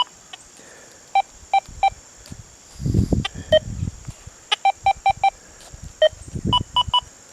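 XP Deus II metal detector giving short electronic beeps at two or three different pitches, singly and in quick runs, as its notch setting is stepped through. Two dull low rumbles of handling come about three seconds in and again near the end.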